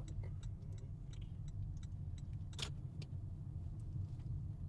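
Car driving, heard from inside the cabin: a steady low road and engine rumble, with faint scattered clicks and one sharper click about two and a half seconds in.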